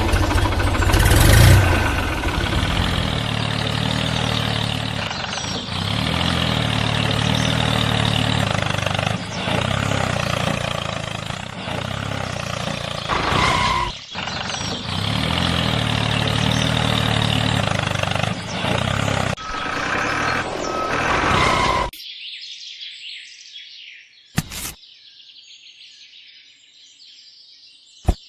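Tractor engine running steadily, then cutting off suddenly about 22 seconds in, leaving faint bird chirps and a couple of short clicks.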